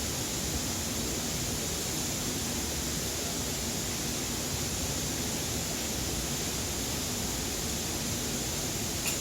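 A steady, even rushing noise, with one faint click near the end.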